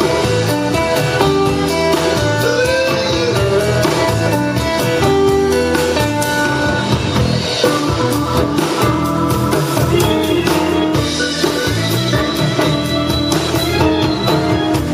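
Blues band playing live, an instrumental stretch between sung lines: guitar lines over a drum kit.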